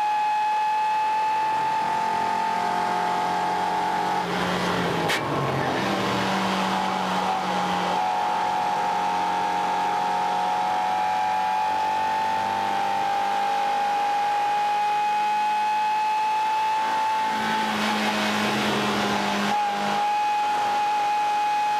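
1997 Mazda Miata's 1.8-litre four-cylinder engine running hard on track, heard from inside the cabin along with wind and tyre noise. The engine note holds fairly steady, with two rougher, changing stretches, about a fifth of the way in and again near the end, as the car comes off and back on the throttle through corners.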